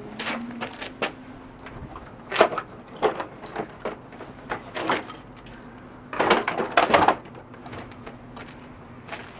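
Plastic knocks, clicks and rattles from a Hoover WindTunnel upright vacuum being handled, with a louder burst of clatter about six seconds in.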